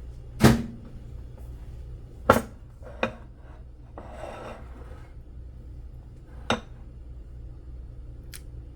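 Dishes handled on a hard kitchen surface: four sharp clinks and knocks spread out over several seconds, a short scrape in the middle, and a small click near the end, over a steady low hum.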